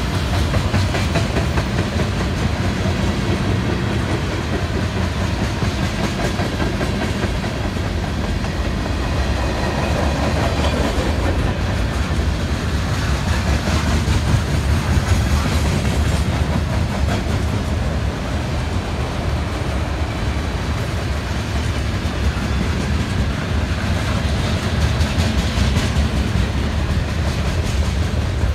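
BNSF freight train of autorack cars rolling past: a steady rumble of steel wheels with a clickety-clack over the rail joints.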